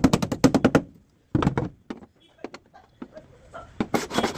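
A rapid, even run of sharp knocks, about eight a second, that stops about a second in, followed by a few scattered knocks and light clatter.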